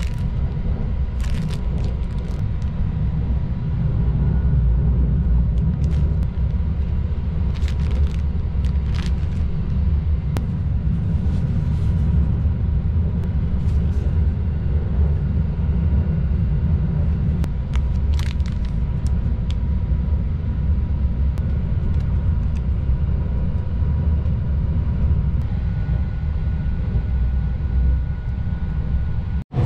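Steady low rumble of the Sunrise Seto sleeper train running, heard from inside a compartment. Scattered short crinkles and taps come from plastic-wrapped items being handled.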